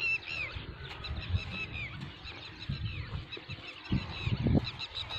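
Many birds chirping in a busy chorus of short, quick calls, with irregular low rumbles underneath that grow stronger near the end.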